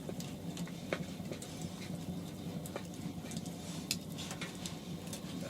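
Scattered light taps and clinks of camp cookware and utensils being handled, over a faint steady low hum.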